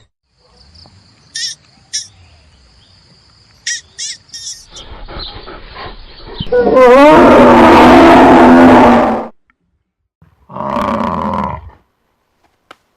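Big cat roaring: one loud call of about three seconds starting near the middle, then a shorter, quieter call about a second after it ends. Before the roar there are a few faint, short high chirps.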